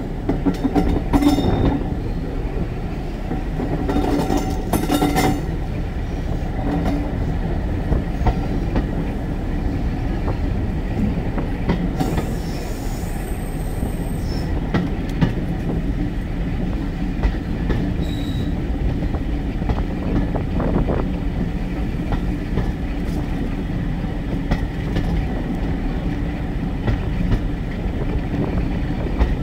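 Class 416 2-EPB multiple unit on the move, heard from inside the carriage: a steady rumble of wheels on rail with clicking and clattering over the track, and a few short wheel squeals in the first few seconds.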